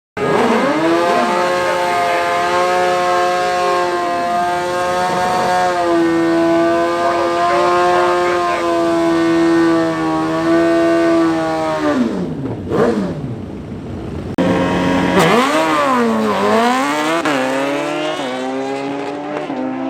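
Drag-racing motorcycle engine held at high, nearly steady revs for about twelve seconds before the revs drop away. After a cut, the engine revs dip and climb again.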